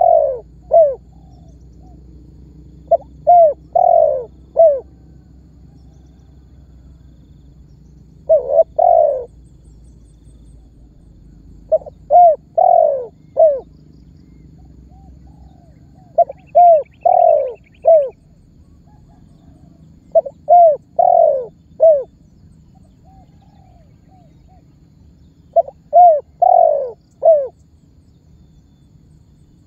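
Spotted dove (tekukur) cooing. Each phrase has three or four notes: short ones, then a longer, loudest note that falls in pitch. The phrase repeats about every four seconds, seven times.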